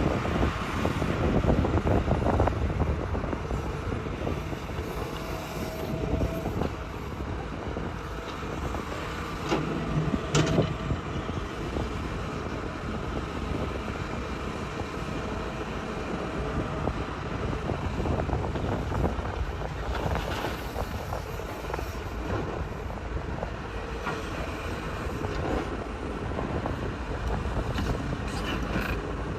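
Hitachi hydraulic excavator working: a steady heavy diesel and hydraulic rumble, with a sharp knock about ten seconds in and a few short squeals.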